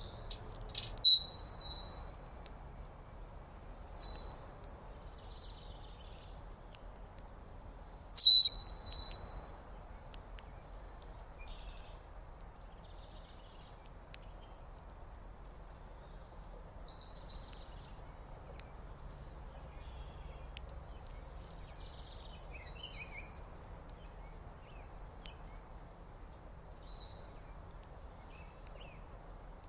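Wild birds calling: two loud, sharp calls that drop quickly in pitch, about a second in and about eight seconds in, with fainter chirps scattered throughout over a steady low background hiss.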